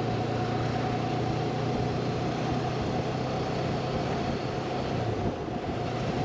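Honda CB500X parallel-twin engine running at a steady cruising speed, mixed with wind rush, and a steady whine sitting above the engine note.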